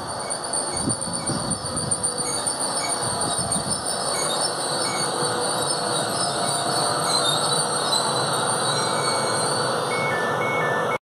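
Trenord ETR 103 Caravaggio electric multiple unit pulling slowly into a station platform, the cars rumbling past with a steady high-pitched squeal as it brakes to a stop. The sound cuts off suddenly just before the end.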